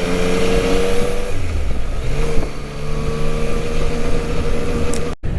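Yamaha Tracer 900 GT's three-cylinder engine running while riding, with wind rush; the revs dip about a second in and pick up again soon after. The sound cuts out briefly near the end.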